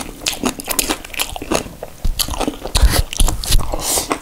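A man chewing kimchi and rice with his mouth open: a quick run of wet crunches, smacks and clicks.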